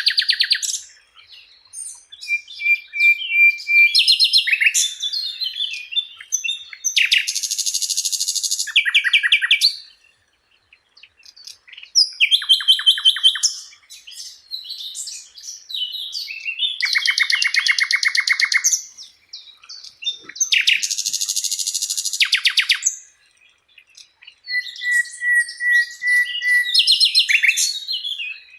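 Sikatan Londo flycatcher singing a varied song in a string of separate bursts with short pauses between them. The bursts are buzzy rattling phrases, rapid trills, and a couple of held level whistles, one near the start and one near the end.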